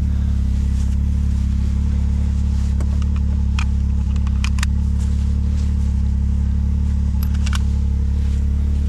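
A steady low drone, typical of a vehicle engine idling heard from inside the cab, with a few light clicks and knocks about three to four and a half seconds in and again near the end.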